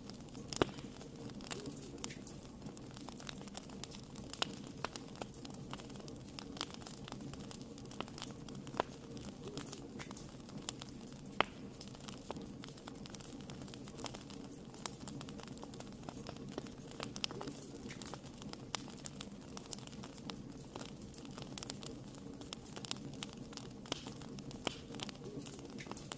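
Wood fire burning in a fireplace: a steady low rush of flame with irregular sharp crackles and occasional louder pops as the wood burns.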